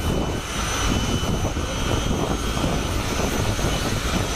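Jet engines of jet funny dragsters running steadily: an even roar with a thin, steady high whine over it.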